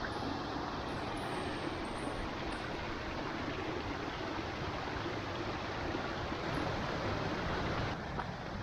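Steady rushing water of Moss Force waterfall and its beck.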